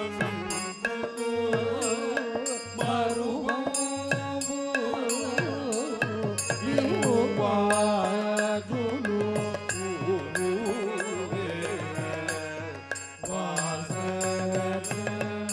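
Carnatic-style devotional bhajan music: an ornamented melody sliding between notes over a steady drone, with a hand drum keeping a regular beat.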